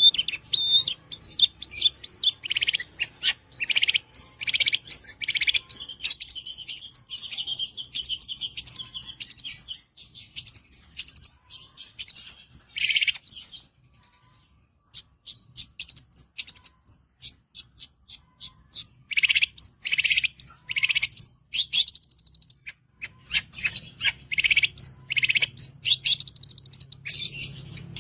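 Long-tailed shrike (cendet) singing a fast, varied song of sharp chirps and trills, with a short pause about halfway through.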